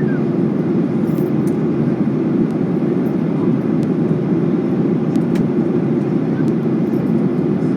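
Steady cabin noise of a Boeing 737-800 airliner in descent: the even, deep rush of its CFM56 engines and the airflow around the fuselage, heard from a window seat.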